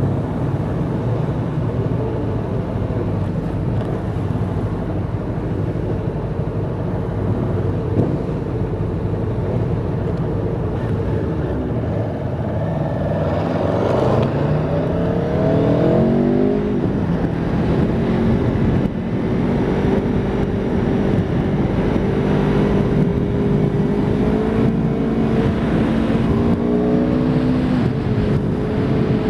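Aprilia Tuono V4 RR motorcycle's V4 engine running. It holds low, steady revs, then climbs in pitch through gear changes about halfway in, and runs on at higher revs that slowly rise.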